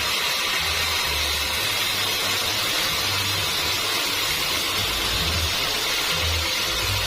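Sawmill running as it cuts through a log: a steady, even machine noise at a constant level.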